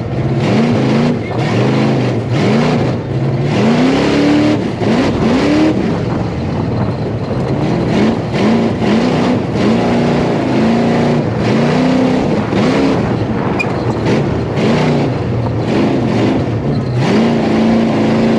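Tough truck engines revving hard while racing, the pitch sweeping up and down again and again as the throttle is worked.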